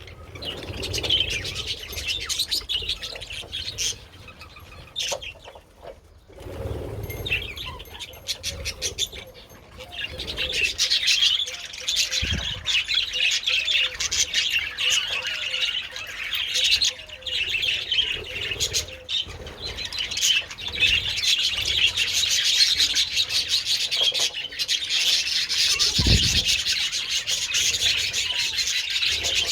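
A flock of budgerigars chattering and warbling, a dense busy chirping that thins out in the first several seconds and then runs on thickly. Two brief low thumps come about halfway through and near the end.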